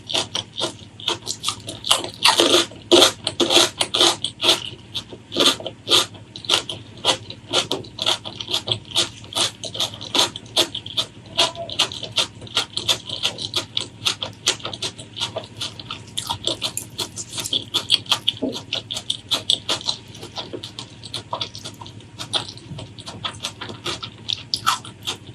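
Close-miked eating sounds: wet chewing with quick lip smacks, several a second, loudest a few seconds in.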